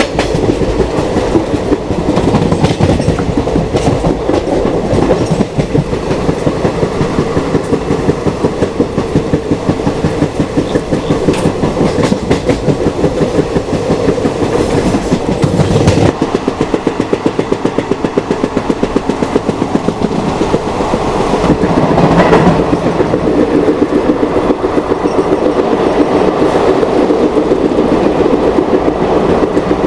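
Passenger train running along the track, its wheels clattering steadily over the rails. The deep rumble thins out about halfway through.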